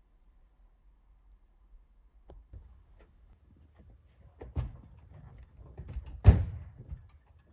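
A vehicle door shuts with one loud thud about six seconds in, after a few lighter knocks and clicks of handling.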